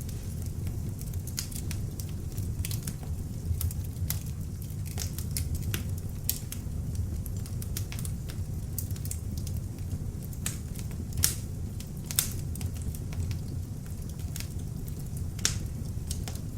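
Beech logs burning in an open fireplace: a steady low rush of flame under constant crackling, with a few louder sharp pops about two-thirds of the way through and near the end.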